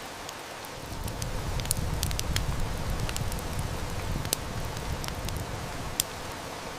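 Steady heavy rain with a wood fire crackling, its sharp snaps scattered through the middle and one loud pop near the end. A low rumble of distant thunder swells about a second in and fades away over the next few seconds.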